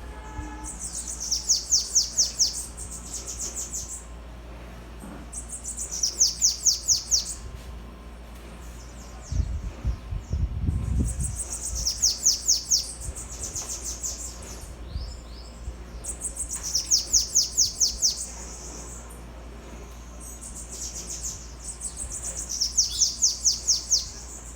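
Bananaquit singing five times, each song a rapid string of high, thin notes, about five seconds apart. A brief low rumble comes between the second and third songs.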